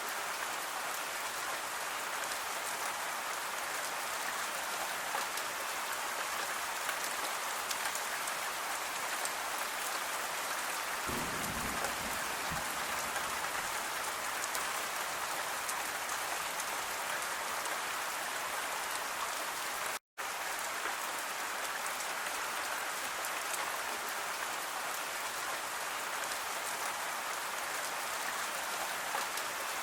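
Steady rain falling: an even hiss with a fine patter of drops. A brief low rumble comes near the middle, and the sound drops out completely for a split second about two-thirds of the way through.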